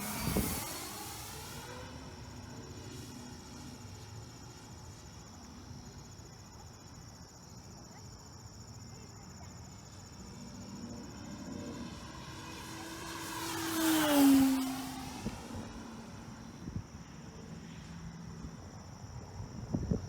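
Electric RC sport plane's E-flite Power 90 motor and propeller whining as the plane flies past twice. The pitch drops as it passes: briefly at the start, and louder and closer about 14 seconds in, with a fainter steady hum between passes.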